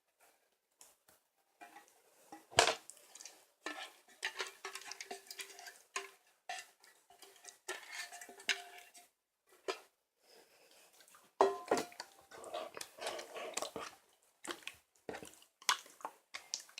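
Clinking and knocking of dishes and utensils in irregular clusters, some knocks ringing briefly; the loudest knock comes about two and a half seconds in.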